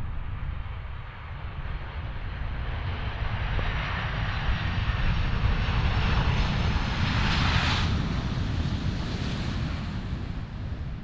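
A Boeing 747's four jet engines as the jet passes by. The rushing engine noise builds to a peak about seven seconds in, then fades as the aircraft moves away, with a faint high whine that drops slightly in pitch.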